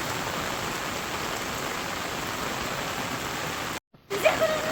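Steady heavy rain falling on surfaces. The rain cuts out briefly near the end, then a short pitched, wavering call rises over it.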